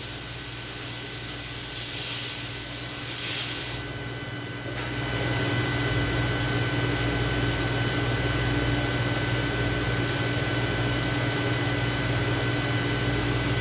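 A spray hiss for about the first four seconds, cutting off abruptly, then a steady machine hum with a few fixed tones, like a shop fan or air conditioner.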